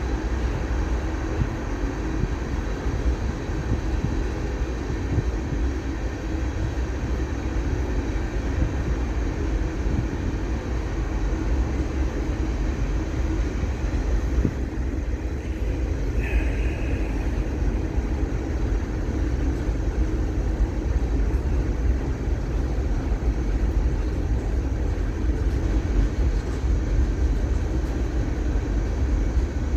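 A freight train rolling past with a steady, continuous low rumble from its wagons. A brief higher-pitched squeak comes about halfway through.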